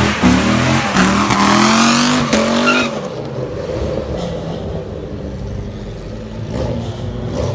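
A car accelerating hard. Its engine note climbs and drops back twice, like gear shifts, then falls away about three seconds in. It stays quieter until it starts pulling again right at the end.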